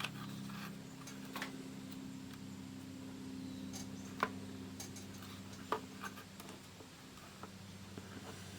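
Scattered light clicks and taps from handling the opened multimeter's circuit board and test probes, the sharpest about four and six seconds in, over a steady low electrical hum.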